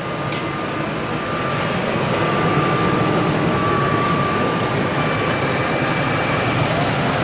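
2003 Ford Expedition's V8 engine idling steadily, with a faint steady whine over it. The truck is running again after a crank-no-start fault in the integrated fuel-pump relay on the fuse board.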